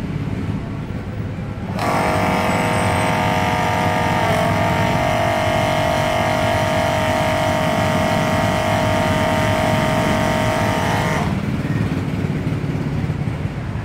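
Electric pump motor of a digital fuel dispenser running steadily for about nine seconds while it delivers a preset one litre, starting suddenly about two seconds in and cutting off near the end once the amount is reached. A steady low rumble runs underneath throughout.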